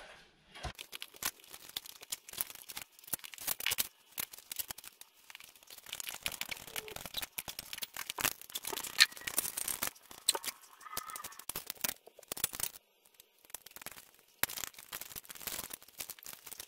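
Irregular clunks, knocks and scrapes of heavy metal parts being handled as an automatic transmission is worked onto the back of a 4G63 engine, with short quiet gaps between bursts of handling.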